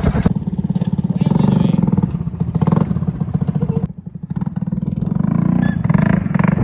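Heavy truck engine running under load with a rapid, even pulse, dropping off briefly about four seconds in and then picking back up.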